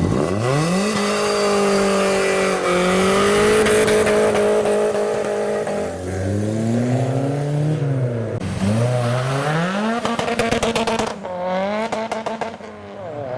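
A modified car's engine revving hard: it climbs quickly at the start and is held high for several seconds, then is blipped down and up again. A rapid string of sharp pops from the exhaust comes near the end.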